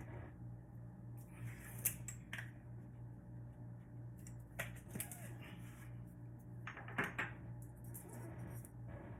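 Kitchen prep handling: a scattering of short clicks and knocks from utensils and dishes being handled, over a steady low hum.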